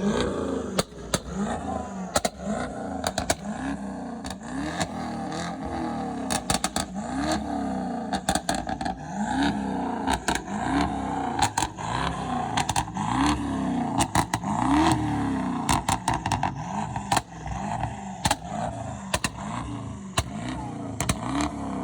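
A car engine revved over and over in short throttle blips, each rising and falling in pitch about once a second, with many sharp pops and crackles throughout.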